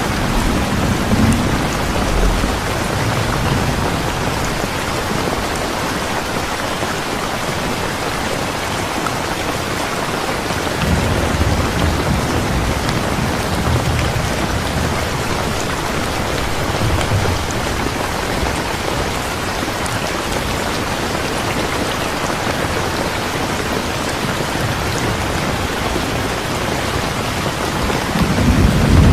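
Steady heavy rain falling on a surface, with low rolls of distant thunder rumbling near the start, a longer stretch in the middle, and again near the end.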